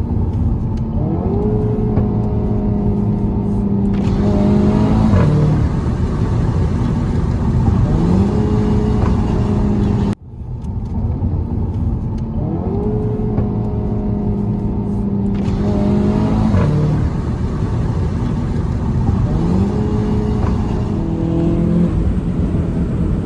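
Audi TT Mk3 engine revving. Its note climbs, holds steady for a few seconds, then falls away, several times over. There is a brief break about ten seconds in.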